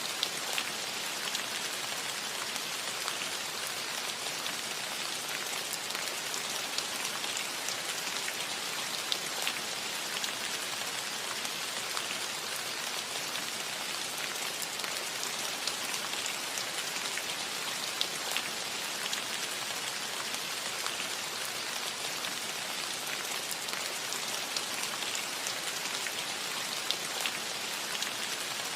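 Steady rain falling on a metal roof, an even hiss with many small scattered drop ticks.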